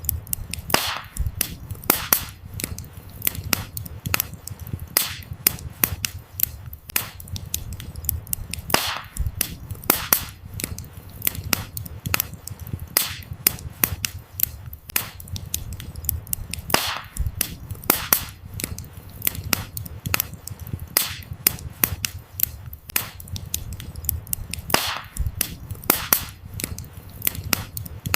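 Campfire of burning firewood crackling: irregular sharp pops and snaps, several a second, over a low steady rumble of flames.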